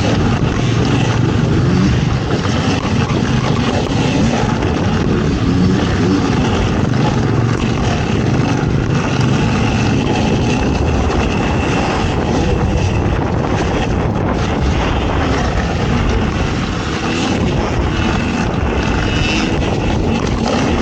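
Off-road racing engine running hard without let-up, with a faint high whine that comes and goes, under a steady rush of wind and rough-terrain noise; the loudness dips briefly near the end.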